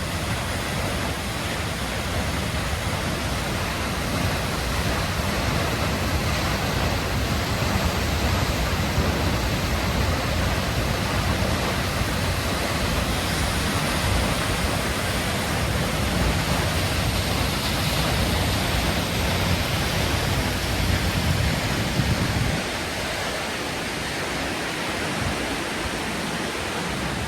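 Hardraw Force waterfall pouring: a steady, loud rush of falling water. A low rumble under it eases off about 22 seconds in.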